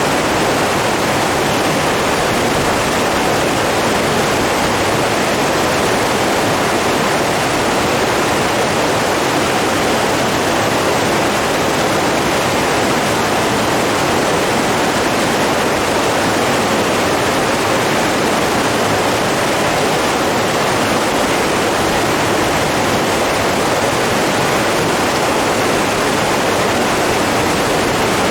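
Steady, even rush of flowing water, with no let-up or separate splashes.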